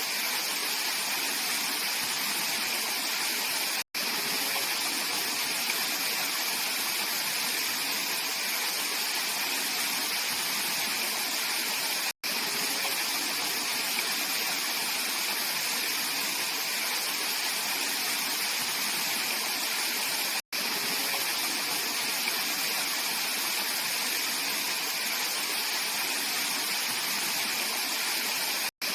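Mountain stream water rushing and splashing over rocks in a steady, even flow. The sound cuts out for an instant about every eight seconds.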